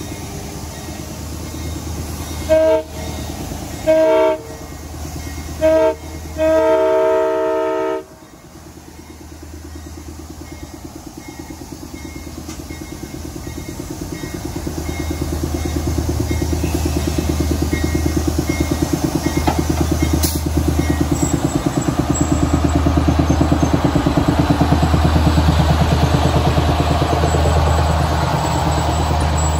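Train air horn blowing four blasts, the last one long. Then a low diesel rumble of an approaching train builds steadily louder.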